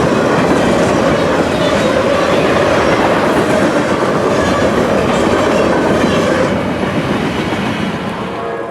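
Railroad cars rolling past at speed, wheels clattering over the rail joints with steady rumbling noise that begins to fade near the end as the train moves away.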